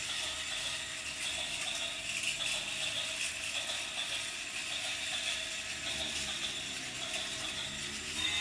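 Small battery-powered motor and plastic gears of a toy train running, a steady fast clicking whir.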